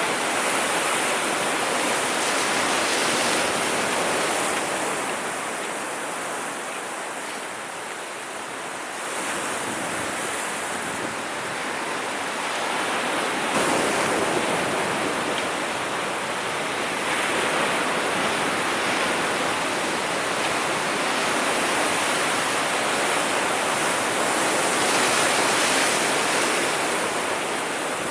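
Sea waves breaking and washing in, a continuous rushing that swells and eases, softer for a few seconds about a quarter of the way through.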